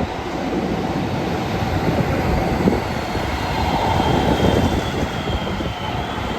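Train running along the platform: a steady rumble of wheels on rail, with a faint high whine that drifts slightly lower in the second half.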